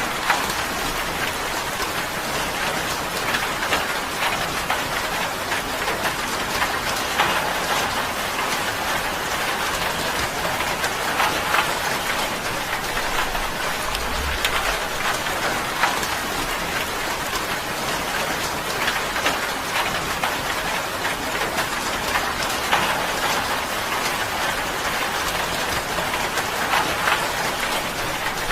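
Steady rain pattering on a tin roof, a dense even hiss of countless small drop ticks.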